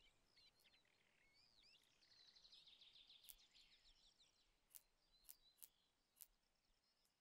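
Faint outdoor ambience of small birds chirping and twittering in short hooked calls. A rapid trill runs briefly about two and a half seconds in, and several sharp clicks sound in the second half.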